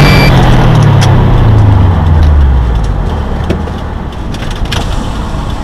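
Subaru WRX STI's turbocharged flat-four heard from inside the cabin. The revs fall steadily over about two and a half seconds as the car comes off the throttle and slows into the pit lane, then the engine runs low and quieter, with scattered light clicks and knocks.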